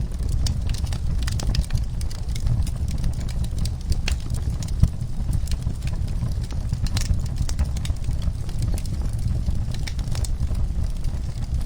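Wood fire burning in a fireplace, crackling: irregular sharp snaps and pops over a steady low rumble of the flames.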